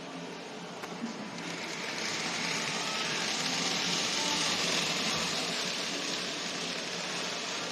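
N gauge model train of the Saitama Railway 2000 series running on the layout track: a steady whirring hiss of the small motor and wheels that grows louder about two seconds in and stays up as it passes close.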